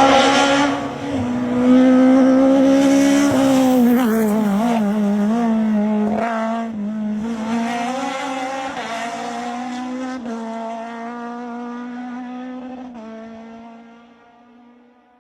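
Renault Clio F2000 rally car's engine running hard, its pitch shifting with throttle and gear changes, then holding steady and fading away near the end.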